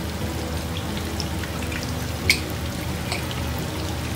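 Sautéed mung bean sprouts, tofu and prawns sizzling in a frying pan, a steady frying hiss with scattered small crackles and one sharper click a little past two seconds in.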